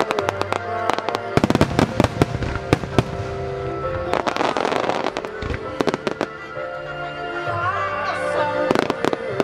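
Starmine fireworks display: a rapid string of shell bursts and sharp reports, thickest in the first few seconds, with a dense hissing crackle about four to five seconds in, all over steady accompanying music.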